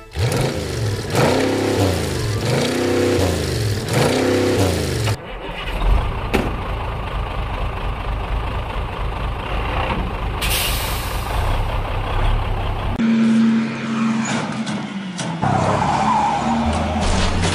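Heavy vehicle engine running as a cartoon sound effect, a steady low drone that changes abruptly a few times. It is preceded by a few seconds of a repeated rising-and-falling wail.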